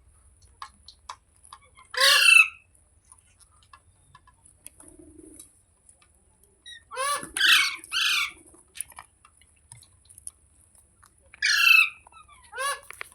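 Indian ringneck parrot (rose-ringed parakeet) giving loud, harsh squawks: one, then a quick run of three, then two more, with faint clicking between.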